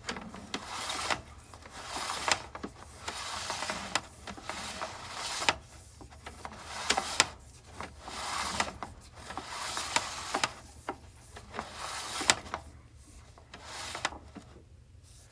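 Sewer inspection camera's push cable being fed into a cleanout, rubbing and scraping in repeated strokes about once a second, with sharp clicks and knocks between them.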